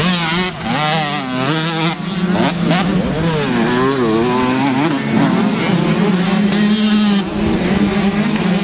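125 cc two-stroke motocross bike engines revving hard, their pitch rising and falling rapidly as the riders work the throttle and shift, with more than one bike running at once.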